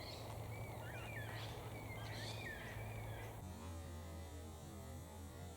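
Wild birds calling with short whistled, warbling notes over the first three seconds or so. Then the sound changes abruptly to a steady low hum with faint hiss.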